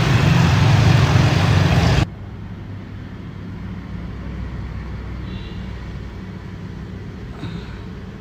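Street traffic noise: a loud, steady low rumble of vehicles that drops suddenly about two seconds in, leaving a quieter, steady traffic rumble.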